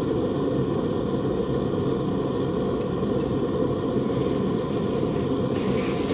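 Blacksmith's forge running: a steady, low rushing noise. A brief, higher, noisier sound joins near the end.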